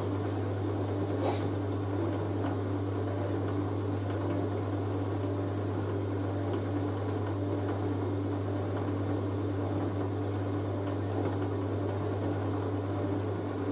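Hoover A3060 Electronic 1100 washing machine running with a steady low hum that cuts off suddenly near the end, as the wash programme finishes.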